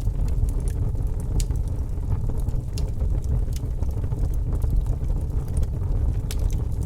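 Wood fire crackling in a fireplace, with scattered sharp pops every half second or so over a steady low rumble.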